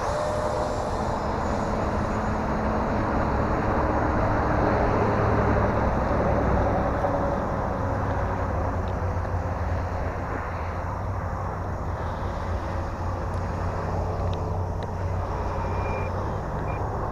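Electric ducted-fan motor of an E-flite F-15 Eagle RC jet in flight, a steady rushing sound that swells about five seconds in and eases off as the jet passes.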